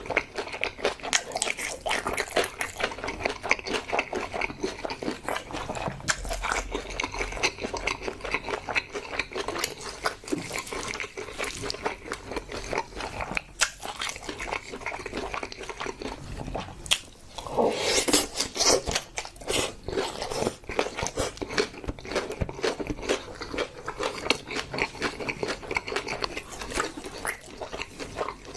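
Close-miked eating: steady wet chewing and biting with many small mouth clicks and crackles, as a meal of spicy pig's trotters and spicy mixed noodles is eaten. A louder stretch lasting about a second comes a little past the middle.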